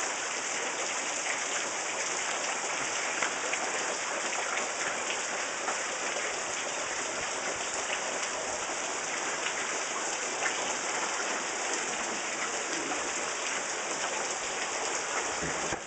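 Heavy rain falling steadily: a dense, even hiss with scattered sharper ticks of drops.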